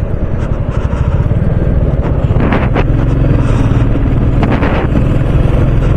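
Royal Enfield Bullet's single-cylinder engine running steadily under way, with wind buffeting the microphone.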